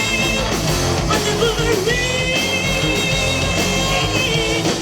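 A heavy metal band playing live, with long held, bending lead lines over a dense full-band backing.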